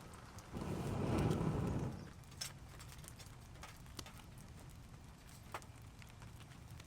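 A loud low rush for about a second and a half near the start, then scattered, irregular taps of raindrops dripping in a downpour over a steady background hiss.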